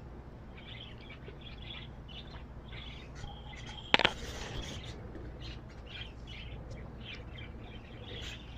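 Small cage birds chirping in short, scattered calls, with one sharp click about four seconds in.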